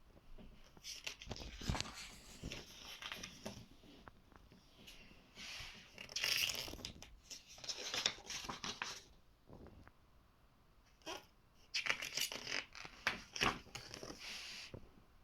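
Paper rustling as the pages of a large printed book are turned, in three separate bursts of crackling and swishing.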